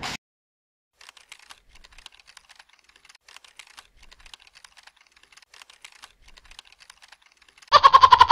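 Computer keyboard typing sound effect: a run of quick, faint key clicks, ending near the end in a short, louder pitched sound.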